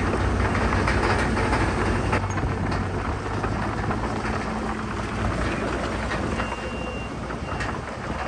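Bulldozer working: its diesel engine runs under a steady clatter of steel crawler tracks. The low engine drone drops about two seconds in.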